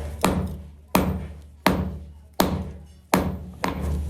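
Six heavy hammer blows on a metal workpiece at an even pace, a little under a second apart, each ringing and dying away briefly.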